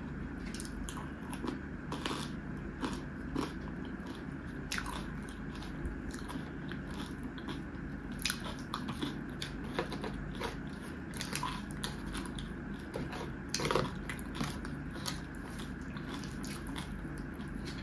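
Close-miked mukbang eating: chewing and crunching on fried catla fish and rice, with many small sharp mouth clicks and crackles, and the soft wet sounds of fingers mixing rice on a tray.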